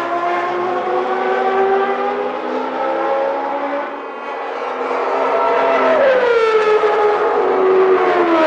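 1991 Formula One race car engines running at high revs, several engine notes overlapping. One note falls steeply about six seconds in, and another near the end, as cars pass or lift off.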